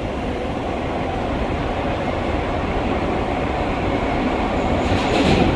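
R143 subway car running along the track, heard from inside the car: a steady rumble of wheels on rail, a little louder near the end.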